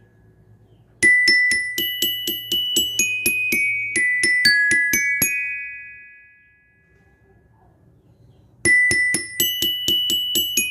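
Bell lyre (marching glockenspiel) struck with a mallet, playing a quick melody of bright, ringing metal-bar notes. About halfway the run ends on a held note that rings out and fades, and a new phrase starts near the end.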